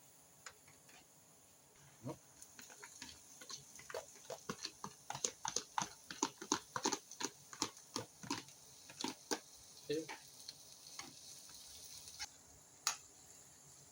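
A rapid series of sharp clicks and knocks from kitchen utensils working against cookware, about three or four a second at their busiest, thinning out near the end.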